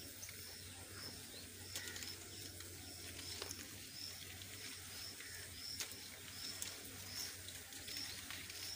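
A bird calling: short high notes repeated a little under twice a second, over a faint steady low hum, with a few faint clicks.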